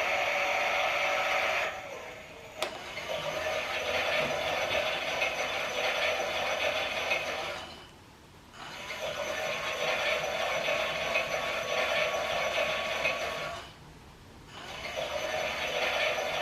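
Toy Klein Miele washing machine's small motor whirring as it turns the drum. It stops briefly about every six seconds, three times, then starts again.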